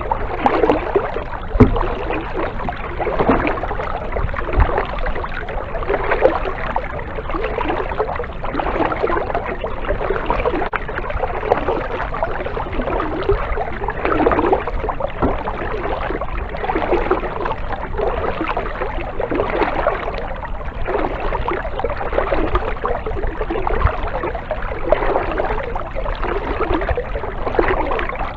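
Kayak paddle strokes, each blade dipping and pulling through the water with a splash and drip, one about every second and a half in a steady rhythm. There is a light knock about a second and a half in.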